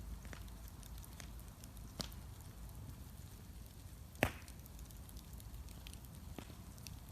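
Wood bonfire crackling, with scattered sharp pops over a low steady rumble; the loudest pop comes about four seconds in.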